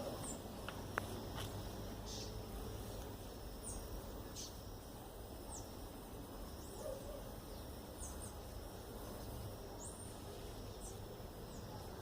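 Small birds chirping outdoors: short, high, sliding chirps repeated about once a second, over a faint steady high insect hum and low wind rumble.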